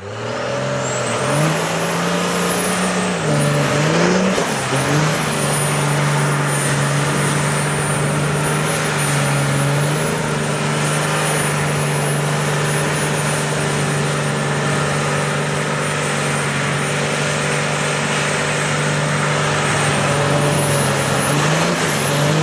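Dodge diesel truck doing a burnout: the engine revs up and down a couple of times, then is held at high revs, with a steady rush from the spinning tyres. The revs dip briefly near the end.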